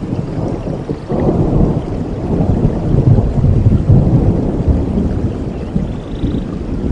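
Rolling thunder over steady rain: a deep rumble breaks in about a second in, is loudest around the middle and slowly fades.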